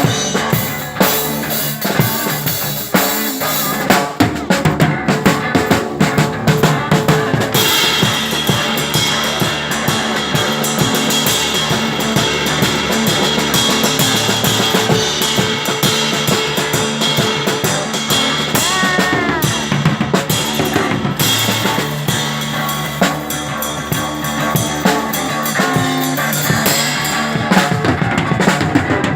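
Live instrumental rock passage: a drum kit played hard with bass drum, snare and cymbals under sustained guitar, with a guitar note bent in pitch a little past halfway.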